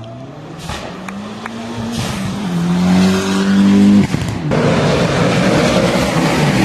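Race car engine accelerating, its pitch climbing steadily, then held high and loud at full throttle. About four seconds in the sound switches abruptly to a harsher, noisier engine sound.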